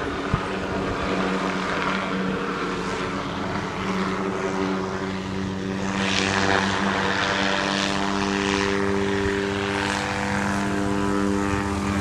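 Helicopter hovering close by: a steady engine and rotor drone with a held hum and rushing air, a little louder from about six seconds in.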